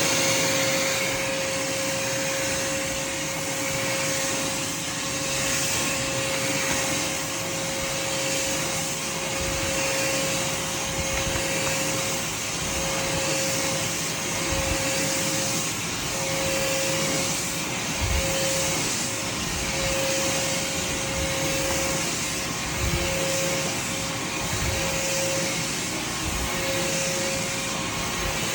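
Craftsman shop vac running steadily with a whine, its level swelling and easing every couple of seconds as the nozzle is worked back and forth over the floor. A few low knocks come in the second half.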